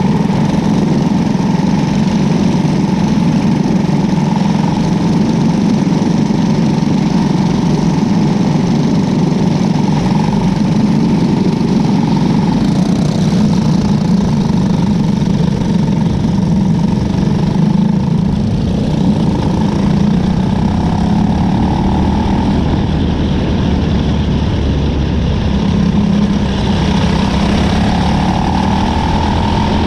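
Cadet winged sprint car's engine running steadily, heard from on board, with slow small rises and falls in pitch in the second half.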